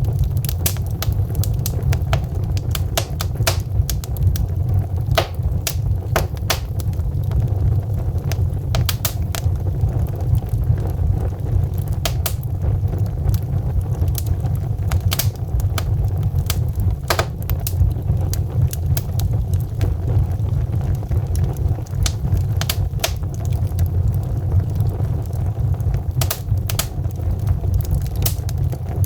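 Wood logs burning in a fireplace: irregular sharp crackles and pops, several a second, over a steady low rumble.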